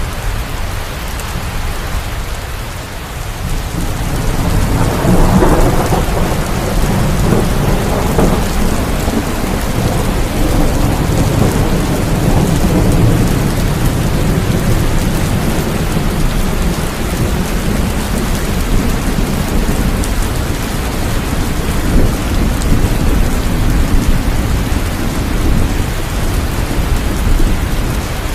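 Steady heavy rain with rolling thunder: a long low rumble swells up about four seconds in and keeps grumbling under the rain.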